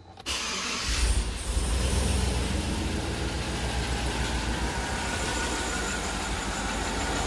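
Chevy 5.3 V8 in a 2007 Tahoe started up: it cranks briefly, catches about a second in, then runs at a steady idle. The engine has a collapsed lifter on cylinder 6.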